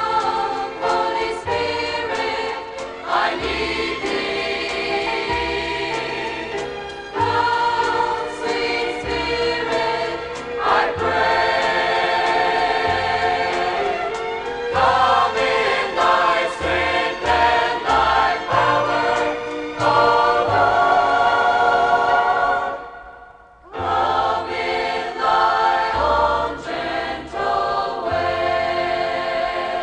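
Choir singing a Christian gospel song with instrumental accompaniment over a pulsing bass line; the music drops out for a moment about three quarters of the way through, then comes back in.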